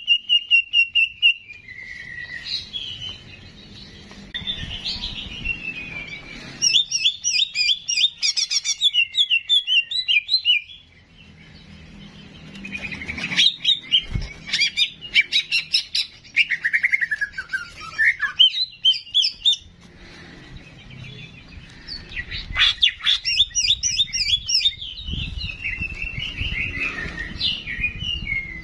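Songbird singing a varied song of chirps, fast trills and whistled notes that slide up and down, in bursts with short pauses between them.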